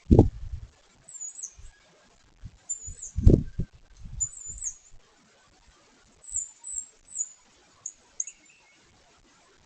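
Downy woodpeckers pecking at a suet log, heard as irregular dull knocks and thumps. The loudest come at the very start and about three seconds in. Faint, short, high-pitched bird chirps come through now and then.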